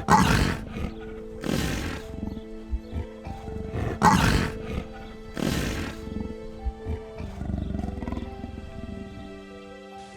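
A big cat roaring four times, in two pairs, each roar short and rough, over soft background music with long held notes.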